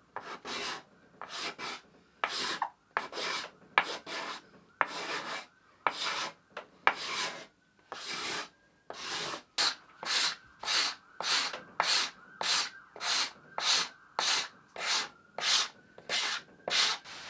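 Repeated scraping strokes of a hand tool along a wooden guitar top, uneven at first and then settling into a steady rhythm of nearly two strokes a second. The wood is being taken down by hand, typical of truing an edge for a glue joint. A faint steady whine sits underneath in the second half.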